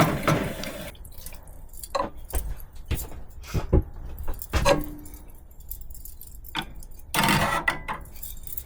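Kitchen clatter of pots and utensils: scattered knocks and clinks, with a short hissing rush about seven seconds in.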